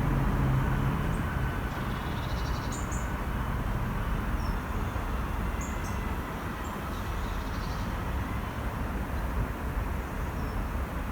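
Small birds chirping in short high calls over a steady low rumble; a low hum fades away within the first second.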